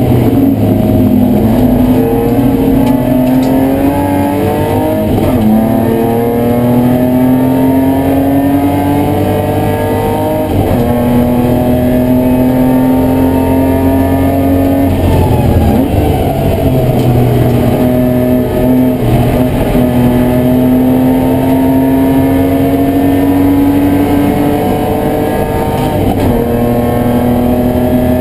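BMW E30 race car's engine heard from inside the cabin, pulling hard under racing load. Its pitch climbs steadily and drops back sharply at each gear change, several times.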